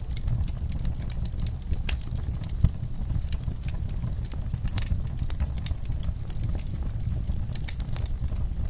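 Wood fire in a fireplace crackling: frequent small irregular snaps over a low steady rumble, with one louder pop about two and a half seconds in.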